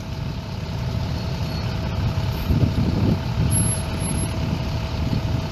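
Steady low rumble of vehicle engines idling, with a faint thin steady whine running through it.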